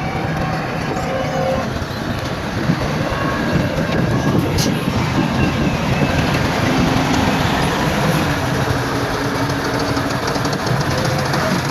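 Bulldozer working: its diesel engine running steadily under load, with the clanking and clatter of its steel crawler tracks. One sharp clank comes a little before the middle.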